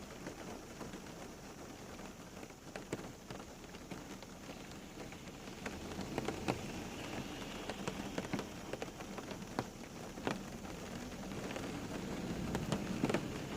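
Steady rain falling, with many distinct drops striking a surface as sharp ticks among the even patter; it grows a little louder in the second half.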